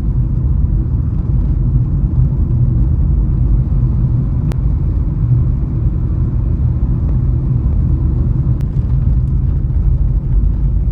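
Car driving along: a loud, steady low rumble of engine, road and wind noise, with two faint ticks partway through.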